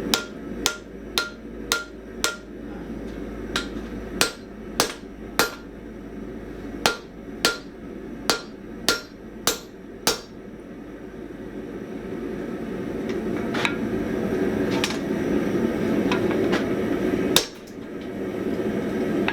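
Hand hammer striking hot spring steel on an anvil, bending it, with the anvil ringing on each blow. About fifteen blows come in quick runs of roughly two a second, then a few spaced-out strikes and one hard blow near the end, over a steady low rushing sound.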